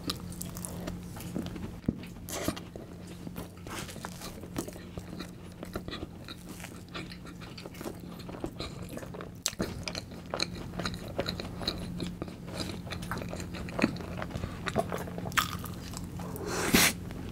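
Close-up chewing and crunching of a firm, partly frozen Oreo cookie-and-cream icebox cake, with many small crisp crunches and a louder bite near the end.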